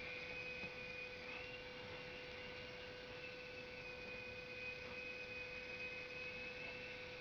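Small coaxial RC helicopter's electric motors and rotors whining faintly as it hovers, the high whine shifting a little in pitch with the throttle, over a steady lower hum.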